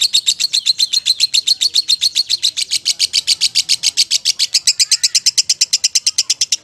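Lovebird singing a long, unbroken rapid chatter of short high notes, about ten a second, the continuous trilling song that lovebird keepers call ngekek.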